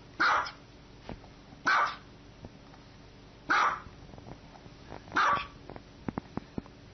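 Small white dog barking: four short, high-pitched barks spaced about a second and a half apart.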